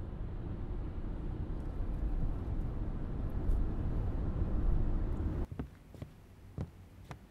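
Steady low rumble of a car driving, heard from inside the cabin, which cuts off suddenly about five seconds in. A few light footsteps follow in a quiet room.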